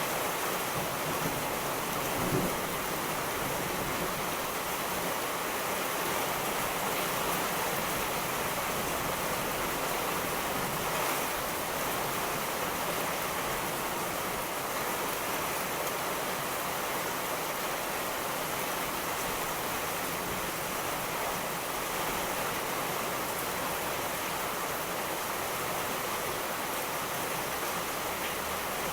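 Steady heavy rainfall hissing evenly, with a brief low thump about two seconds in.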